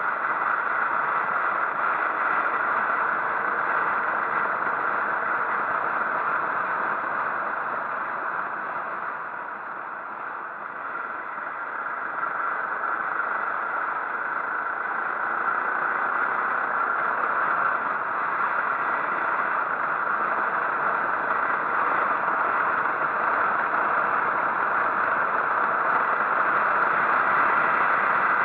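Steady rushing wind and road noise of a motorcycle underway, easing briefly about ten seconds in.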